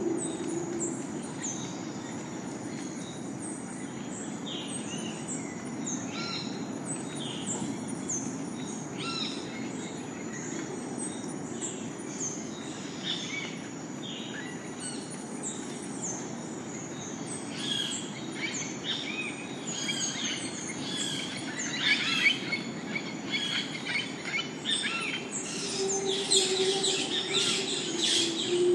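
Rainforest bird chorus: many birds giving short, quick falling chirps over a steady high-pitched whine and a low background hum. The calls grow denser from about halfway and are loudest near the end, where a low steady drone joins in.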